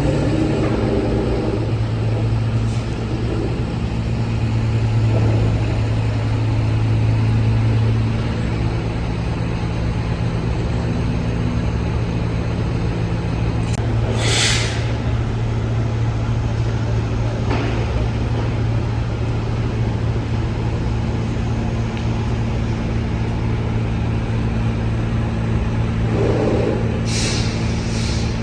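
Liebherr T 264 mining dump truck running on the move: a steady deep hum, with a short hiss about halfway through and another near the end.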